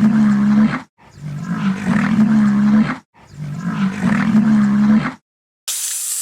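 Cattle mooing: three long, steady moos of about two seconds each, separated by brief silences. A short high hiss follows near the end.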